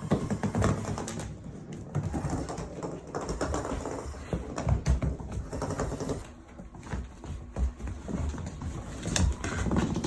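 Great Dane puppies playing with a self-moving motorised ball: irregular clicking, knocking and thumping of paws and the ball, with some low dog vocal sounds.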